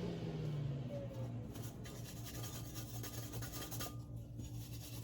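A vacuum cleaner's motor winding down after being switched off, its pitch falling and fading out about a second in. Faint scratching and rubbing of parts being handled follow.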